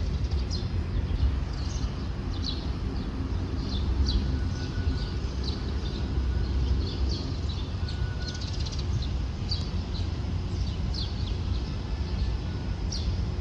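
Birds chirping, short repeated calls about once a second, over a steady low rumble.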